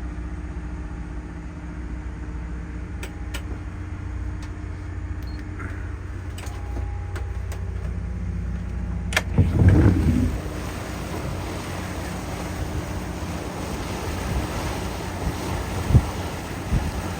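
A boat's engine drones steadily aboard a trawler. About halfway through comes a sharp click and a brief louder rush, and then wind and water noise takes over the sound.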